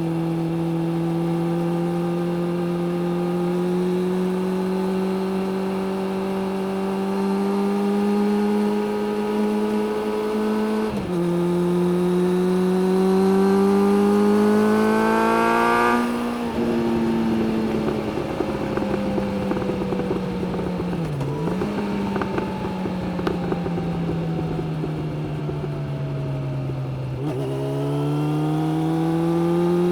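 Suzuki GSX600F's inline-four engine under way: revs climb steadily, drop briefly at a gear change, and climb again. Then the throttle is shut and the engine note falls away slowly, with a short dip partway down, before it picks up again near the end.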